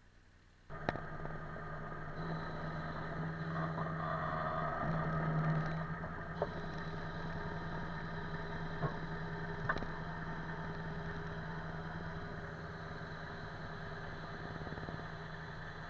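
An engine starts up suddenly and runs steadily at an even speed, with a few sharp clicks or knocks over it.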